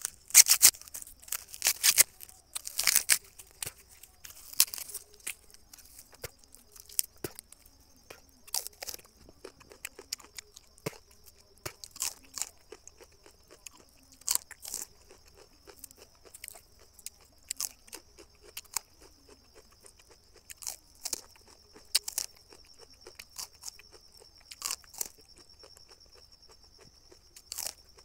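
Popcorn being chewed close to the microphone: irregular crunching bites, densest and loudest in the first few seconds, then sparser.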